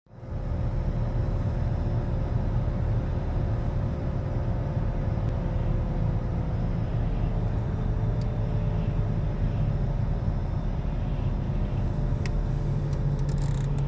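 Loud, steady hum from a worn front wheel bearing on a 2013 Nissan Altima, heard from inside the moving car over road noise. The hum's pitch follows road speed, drifting slightly as the car goes faster or slower.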